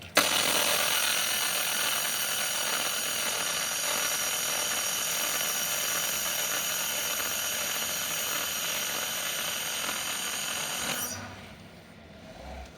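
Robotic laser welder running: a steady hiss with several thin, steady high tones over it. It starts abruptly with a click and stops about eleven seconds in.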